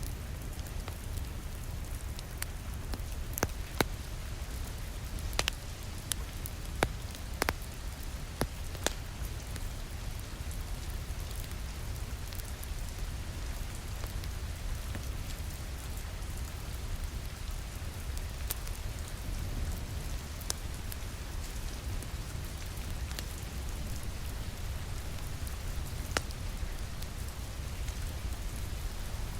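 Rain ambience with a crackling wood fire: a steady wash of rain, with sharp pops from the burning fire scattered through it. The pops come most often in the first ten seconds.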